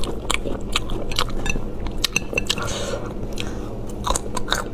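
A person chewing a mouthful of spicy braised chicken and duck offal close to the microphone, with many short, wet mouth clicks and smacks.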